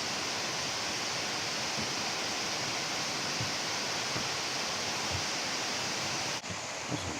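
Waterfall: falling water making a steady rushing hiss, with a brief drop and a slight change in its tone about six seconds in.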